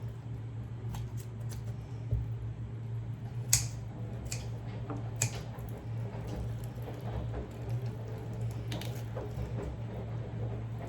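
Kitchen scissors snipping through the tendons and joints of a raw chicken, a handful of separate sharp snips with soft squishing of the wet meat, over a steady low hum.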